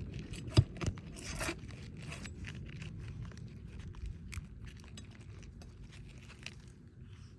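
Irregular handling noises: scattered clicks, scrapes and knocks, with one sharp knock about half a second in, over a low steady rumble.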